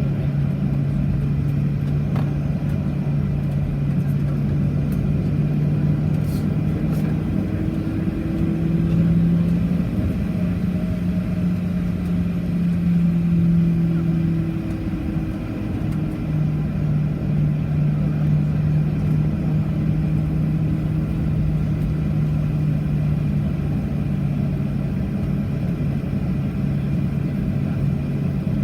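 Steady low drone of a Boeing 737-800's machinery heard inside the cabin, its hum rising slightly in pitch for a few seconds near the middle and settling back, with a couple of faint clicks early on.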